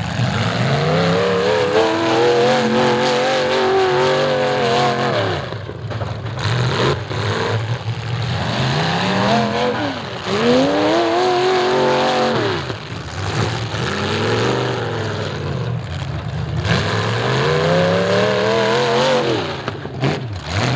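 Demolition derby car engines revving hard in repeated surges, their pitch climbing and falling again several times.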